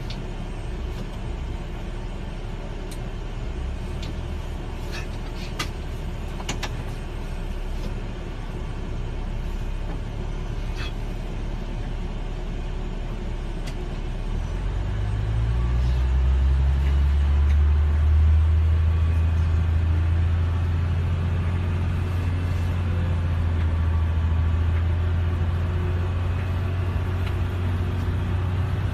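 Steady low rumble of a pushback tug moving an Airbus A380, with a few faint clicks early on. About halfway through a deep engine drone comes in: it rises briefly in pitch, then holds steady and gets louder as the tug's engine takes the load.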